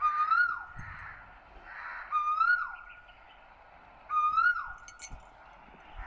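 A bird calling over and over, three calls about two seconds apart, each one rising, holding its pitch, then falling away.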